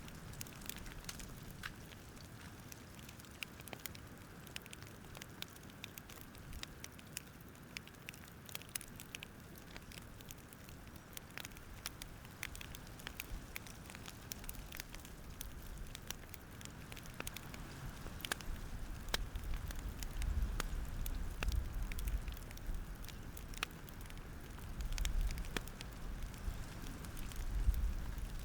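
Wood fire crackling: frequent sharp snaps and pops over a soft steady hiss, with a low rumble that swells a few times in the second half.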